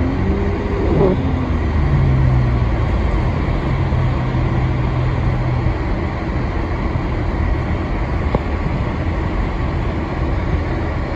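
Steady road and engine noise heard inside a car's cabin while driving, a low rumble throughout, with a low hum from about two seconds in to about six seconds in.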